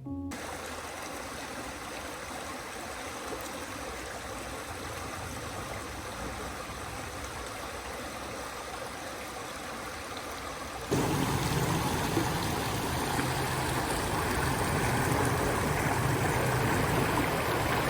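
Stream water running steadily, a continuous rushing wash that gets suddenly louder about eleven seconds in.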